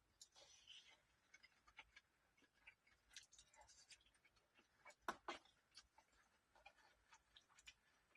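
Near silence with faint, scattered light clicks and scratches, and two slightly louder knocks about five seconds in.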